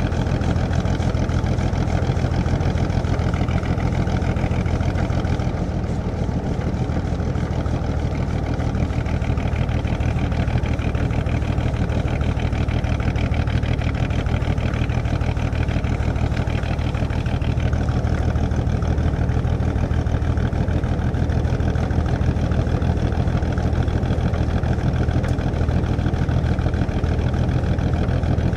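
A 1937 Plymouth's flathead straight-six engine heard from inside the cabin, running steadily while the car idles and drives, with a brief dip in level about five seconds in.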